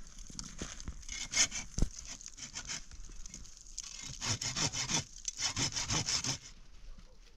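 Wood being sawn by hand in two spells of quick back-and-forth strokes, the second about four seconds in.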